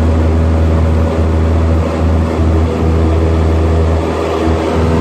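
Cessna 172's piston engine and propeller running with a steady, loud drone, under a haze of rushing air noise.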